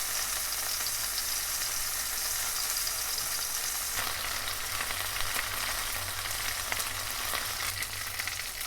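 Flour-coated chicken breast sizzling steadily in hot oil in a frying pan.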